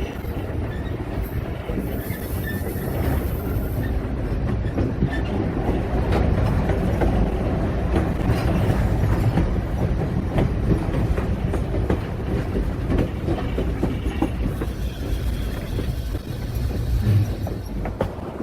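Passenger train rolling on the rails: a steady low rumble with irregular wheel clacks and rattles over the track.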